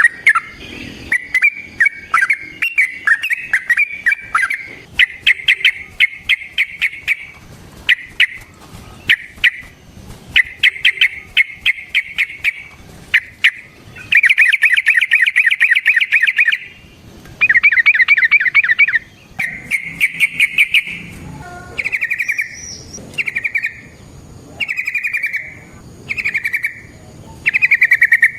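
Yellow-vented bulbul (trucukan) singing loud, rapid chattering phrases, breaking into two long rolling trills midway, then giving short separate phrases about once a second near the end.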